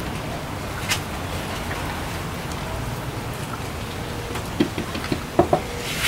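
Steady rain, with a few light wooden knocks and clicks near the end as mitred cherry boards are set against each other.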